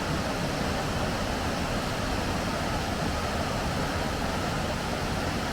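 Steady rushing roar of Zillie Falls, a rainforest waterfall, water pouring without a break.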